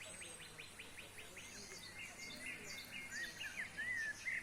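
Songbirds singing: a fast trill of repeated high notes, about eight a second, then a string of varied chirps and slurred whistled notes.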